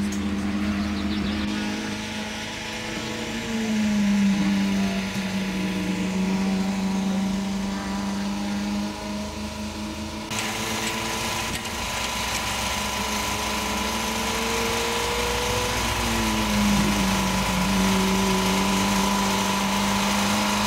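A car engine runs at a held speed, a steady pitched drone whose pitch slowly rises and falls a few times.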